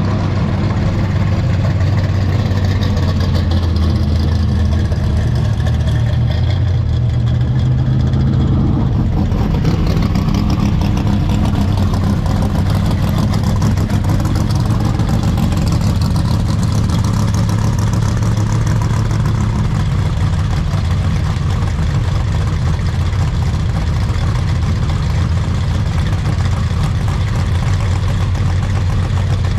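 Classic Chevrolet car engines, from a Chevy Vega wagon and a Chevy II Nova, idling and running as the cars pull away. The steady low engine note shifts about nine seconds in.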